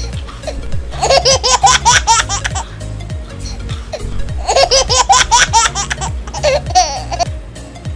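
High-pitched laughter in two bursts of quick repeated pulses, the first about a second in and the second about halfway through, over background music with a steady low beat.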